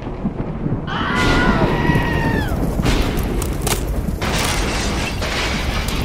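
A loud, deep, continuous rumbling boom, with a high wailing tone about a second in that falls away after about a second and a half, and a few sharp cracks after it.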